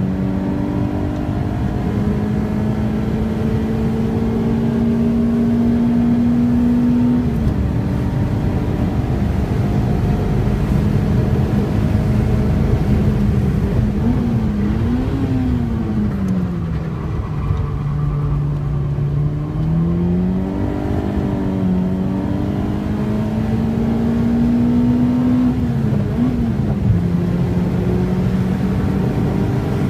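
Peugeot 106 engine heard from inside the cabin, pulling through the gears on a circuit: the note climbs slowly and drops several times at gear changes, with a lower-revving stretch in the middle before it picks up again. Steady road and tyre noise lies beneath.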